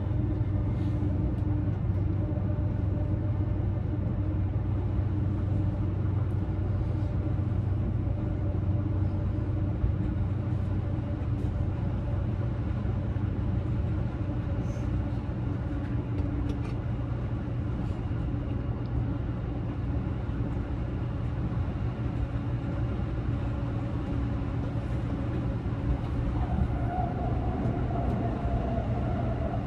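Interior noise of an E353 series electric limited express train: a steady low hum and rumble with a few faint clicks. A higher steady whine comes in near the end.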